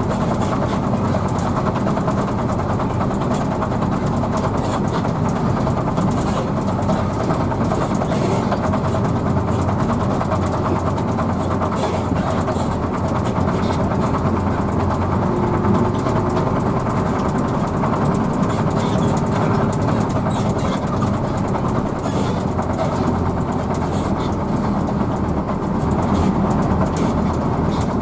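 Steady rumble of a Hino AK bus under way: the engine drone and road noise as heard by a passenger riding inside, even throughout with no sudden change.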